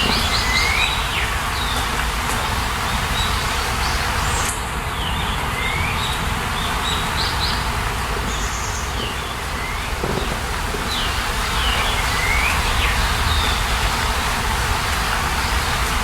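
Birds singing short repeated chirping phrases every few seconds over a steady rushing noise of a nature soundscape.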